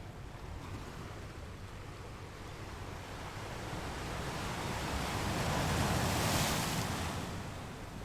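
Sea waves: a wave swells and breaks about six seconds in, then the wash ebbs away.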